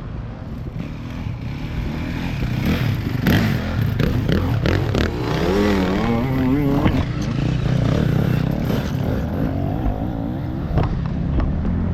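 Enduro motorcycle engine revving up and down as it grows louder and goes past, with a few sharp knocks partway through and near the end.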